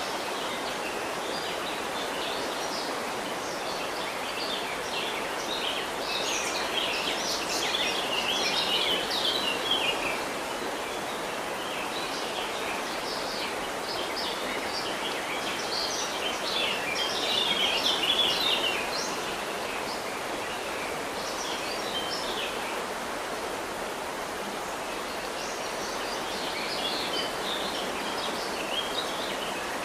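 River water flowing steadily, with birds chirping over it in clusters of quick, high calls about a quarter of the way in, again a little past the middle, and near the end.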